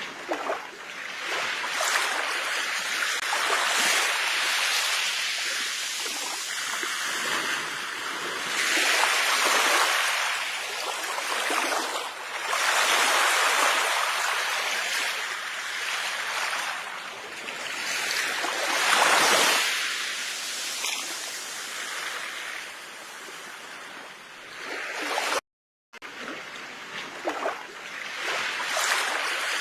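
Sea waves breaking and washing on a shore, swelling and fading every few seconds. The sound cuts out for a moment near the end.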